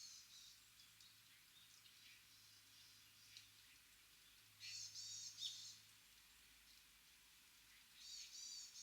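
Small birds giving quick runs of short, high chirping calls in three clusters: at the start, around the middle, and near the end, against quiet forest air.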